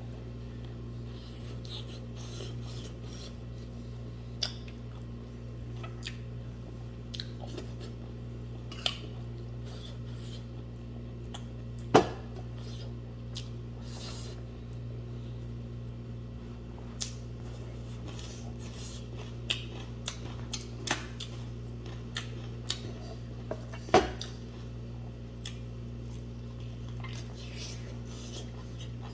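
Scattered clinks and knocks of eating utensils against a plate or bowl while eating rice with buffalo leg soup, two of them clearly louder, one near the middle and one later. A steady low hum runs underneath.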